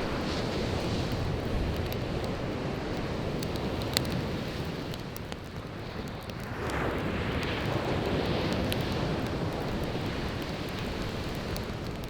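Sea waves washing onto the shore, easing off and surging in again about halfway through, with a wood fire crackling and popping in sharp clicks over the surf.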